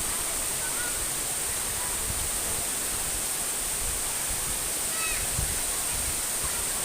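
Steady rush of a jungle waterfall, falling water making an even hiss with no breaks.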